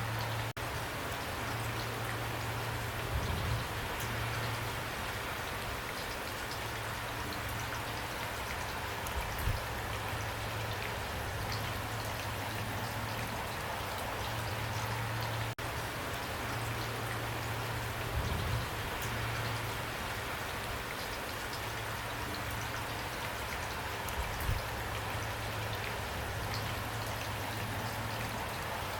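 Steady downpour of rain, an even hiss of drops. Four times a heavier drop lands with a louder low thud.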